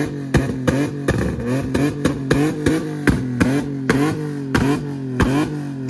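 Nissan Maxima's V6 engine held against the rev limiter. Its pitch jumps up and drops back about three times a second, with a sharp exhaust pop at each cut.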